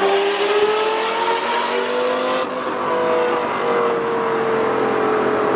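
Straight-piped Lamborghini Gallardo Superleggera V10 with no mufflers, pulling under heavier throttle. Its note climbs for about two and a half seconds, then eases and sinks slowly.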